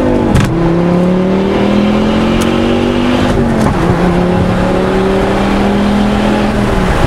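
2005 Volvo S40 T5's turbocharged inline five-cylinder pulling hard through a muffler-deleted, side-exit custom exhaust. The engine note climbs steadily through each gear, with quick upshifts dropping the pitch right at the start, about halfway through, and near the end.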